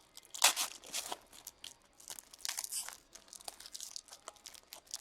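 A trading-card pack wrapper crinkling and tearing as cards are handled, in irregular rustling bursts. The loudest come about half a second in and again around two and a half seconds in.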